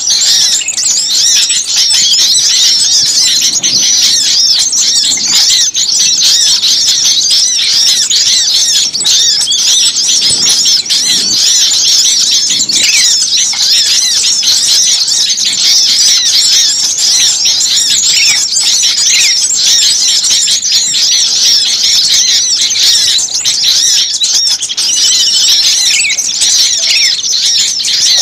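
Dense, unbroken chorus of many small songbirds chirping and squeaking rapidly and high-pitched, an agitated noisy flock of the kind played as a bird lure.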